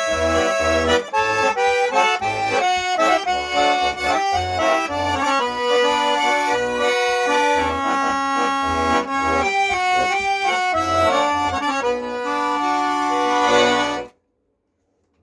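Accordion playing a melody over short pulsing bass notes, stopping abruptly about a second before the end.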